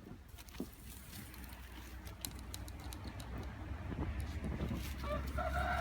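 Scattered light clicks over a low rumble, then a rooster starts crowing near the end.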